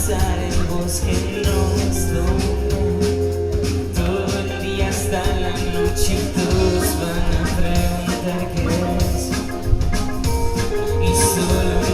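Live band playing an instrumental passage: bass, guitars and drums with a steady beat, in a bar.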